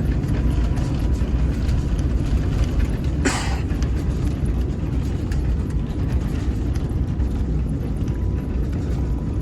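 Steady low rumble of an Airbus A350-900 airliner's cabin noise, engines and airflow, heard from inside the cabin during the landing phase, with a brief hiss about three seconds in.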